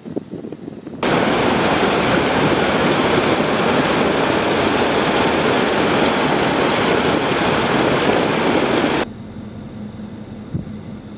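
Strong wind rushing over the microphone: a loud, even noise that begins suddenly about a second in and cuts off suddenly near the end, with fainter wind rumble either side.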